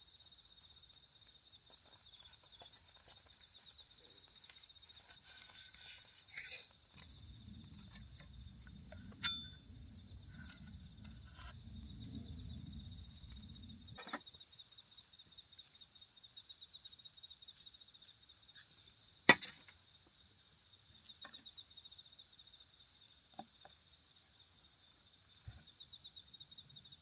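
Chorus of night insects, a steady high-pitched pulsing trill. A sharp click comes about nine seconds in and a louder sharp knock a little after the middle, with a low rumble in between.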